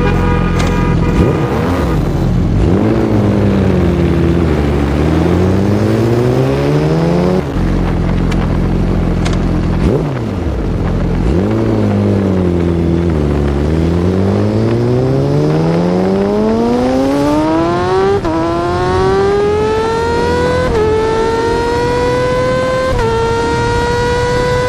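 Yamaha R6 inline-four engine revving. The pitch falls and climbs twice, then rises steadily to a high pitch and changes up three times, the pitch dropping a little at each shift.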